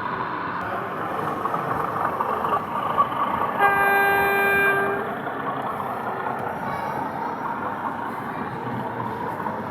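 A sound-fitted model locomotive sounding one horn toot, a steady note lasting about a second and a half, starting between three and four seconds in. It plays over the steady background hubbub of the exhibition hall.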